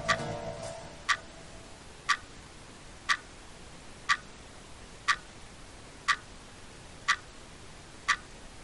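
Clock ticking steadily once a second, with the last of a music cue fading out in the first second.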